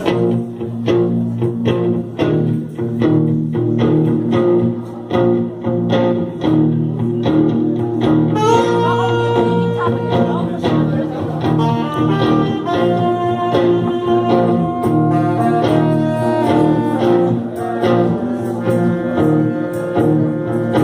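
A live rock band playing the instrumental intro of a song, with steady bass and chords; a lead melody of long held notes comes in about eight seconds in.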